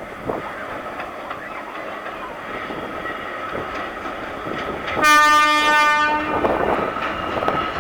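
Oigawa Railway E100-class electric locomotive approaching with its train, wheels clattering and rumbling louder as it nears. About five seconds in, it sounds one steady horn blast lasting about a second and a half.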